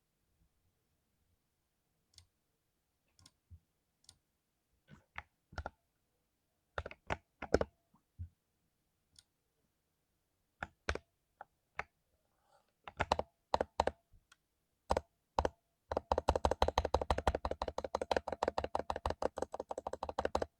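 Mechanical keyboard with lubed Cherry MX Silver linear switches being typed on. Scattered single keystrokes and short clusters come first, then about four seconds of fast, continuous typing at about ten keystrokes a second, stopping just before the end.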